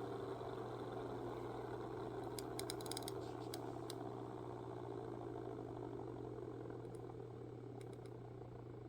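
A faint, steady low hum with a few light clicks, a cluster about two and a half seconds in and a couple more near the end, slowly fading.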